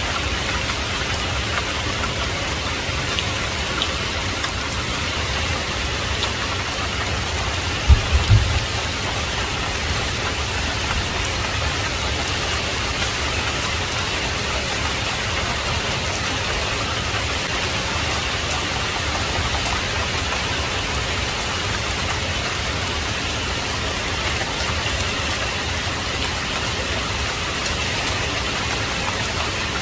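Heavy rain falling steadily. A brief low thump comes about eight seconds in.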